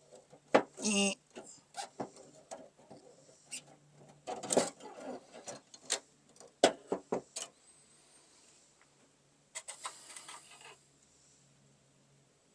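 Irregular clicks, knocks and rattles of tailgate parts being handled and worked, with a few short squeaky or mumbled sounds among them.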